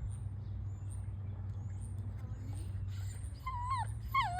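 An animal giving short whining calls that fall in pitch, two of them near the end, over a steady low hum and faint high chirps.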